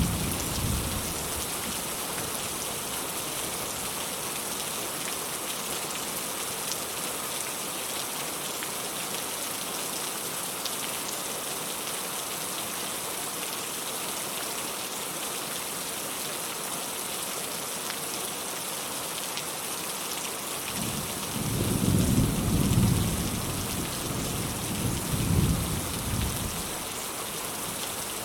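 Steady rain falling, an even hiss, with distant thunder rumbling low in two swells about three quarters of the way through.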